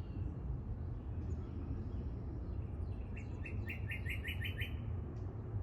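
A songbird singing: a quick run of about eight repeated chirps a little past the middle, with a fainter high thin note before it, over a steady low rumble.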